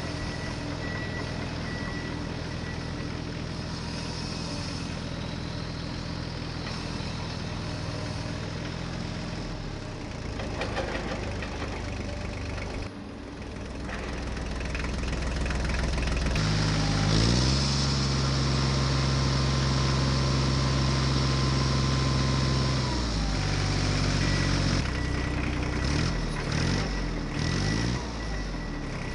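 Electronic engine sound effect of remote-control toy vehicles, with a repeating reversing beep at the start and again near the end. Partway through, the engine note rises, runs higher and louder for several seconds, then drops back down.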